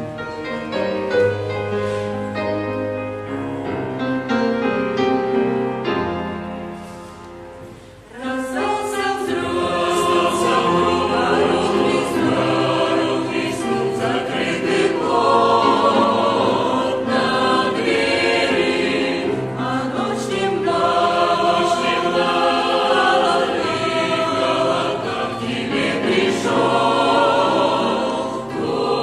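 Church choir singing a hymn with accompaniment. It comes in about eight seconds in, after a softer instrumental introduction that fades just before.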